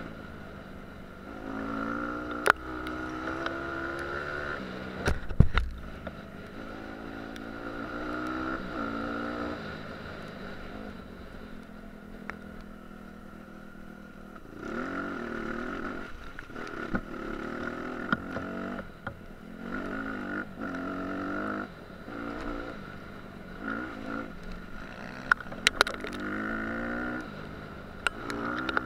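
Dirt bike engine revving up and falling back again and again as the rider rides the throttle and shifts. A few sharp knocks and one heavy thump, about five seconds in, are heard over it.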